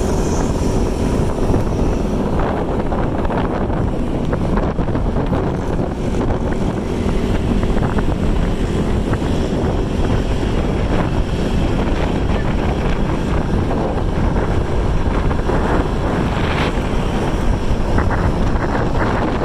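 Wind buffeting the microphone over the steady running noise of a vehicle.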